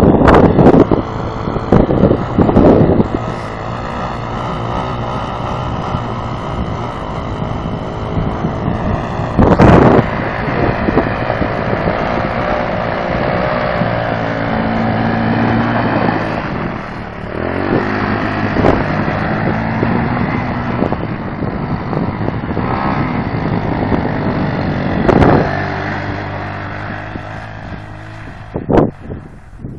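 ATV engine running while riding, its pitch rising and falling as the throttle changes, with gusts of wind buffeting the microphone now and then. The engine sound fades near the end.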